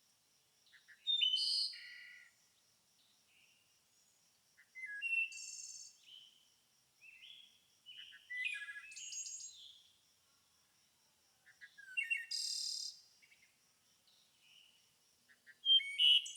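Songbirds singing short, varied phrases of chirps and trills, one about every three to four seconds, with a faint, steady, high pulsing trill underneath.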